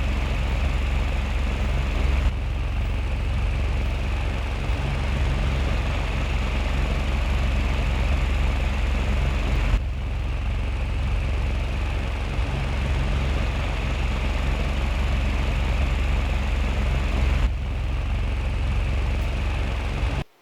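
Mini ceiling fan running steadily, with a whirring hum and its airflow buffeting the microphone as a low rumble.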